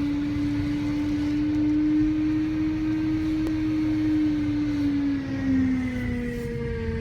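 A BMW E92 M3 with a steady whine over a low rumble. The whine holds its pitch, then drops about five seconds in and settles lower, and a second, higher whine comes in near the end.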